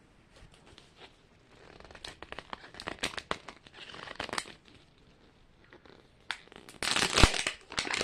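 Plastic wrapping on a Mini Brands capsule crinkling and tearing as it is peeled off by hand, in quick bursts of crackles, with a louder rustle and one sharp snap about seven seconds in.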